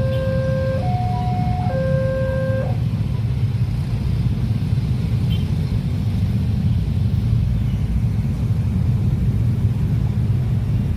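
A train passing over a level crossing, a steady low rumble. For the first three seconds the crossing's electronic warning alarm also sounds, two tones taking turns about once a second, and then it stops.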